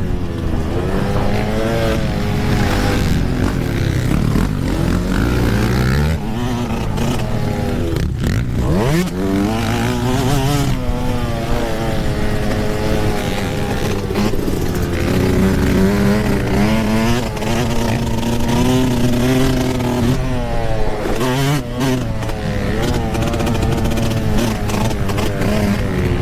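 Yamaha YZ125 two-stroke motocross bike engine revving hard, its pitch climbing and falling again and again with the throttle and gear changes. The throttle shuts off about eight seconds in and again around twenty-one seconds, each time followed by a steep rise as it opens back up.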